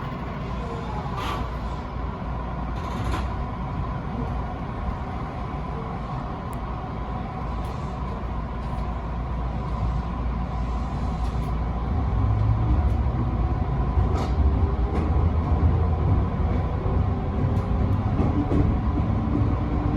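Electric commuter train setting off, heard from the front of the train: a steady rumble with a low motor hum that grows louder from about twelve seconds in as it gathers speed.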